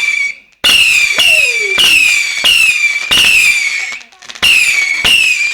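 Whistling fireworks: a rapid series of shrill whistles, each about half a second long, starting abruptly and dropping slightly in pitch, one after another, with brief pauses near the start and about four seconds in.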